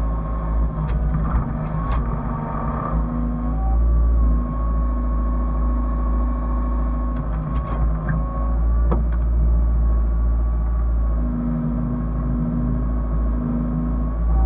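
Hyundai excavator's diesel engine running steadily with a low rumble and a steady whine above it, with a few sharp knocks mixed in.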